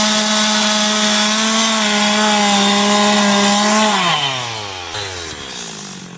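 Two-stroke chainsaw running at high revs while cutting deep into the wooden log. About two-thirds of the way through, the throttle is let off and the engine note falls steadily to a low idle.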